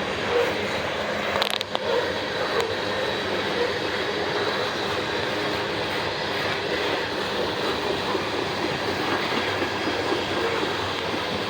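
A train's cars rolling past on the rails, a steady wheel-on-rail rumble, with one brief sharp click about a second and a half in.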